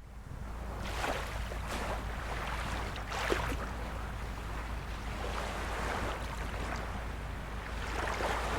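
Small sea waves lapping and splashing at the shore, a soft splash every second or two over a steady wash, with a steady low rumble underneath. The sound starts suddenly out of a moment of dead silence.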